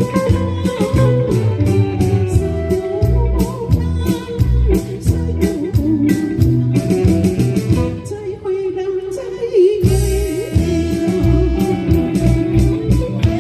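A band playing a pop song with a singer, guitar, bass and a steady drum beat. About eight seconds in, the drums and bass drop out for a couple of seconds, leaving only the wavering melody line, then the full band comes back in.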